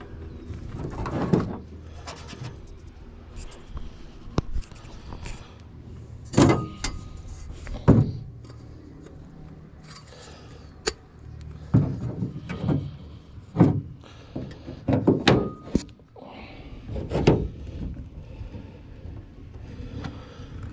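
Irregular metallic clanks and knocks, about ten in all, some with a short ring, as aluminum angle and tools are handled and riveted into an aluminum boat hull.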